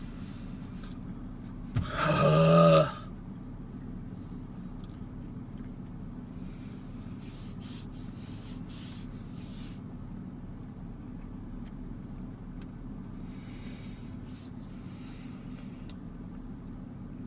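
A man lets out one loud, strained groan about a second long while forcing down a mouthful of corn dog, over a steady low hum, with a few faint rustles later.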